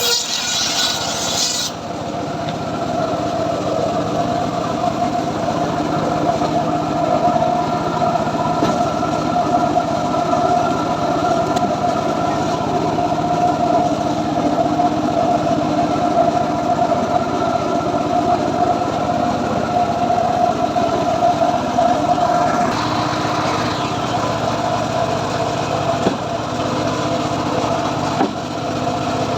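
Small engine of a wood saw running steadily at a constant speed, with a hissing cutting noise that stops about two seconds in.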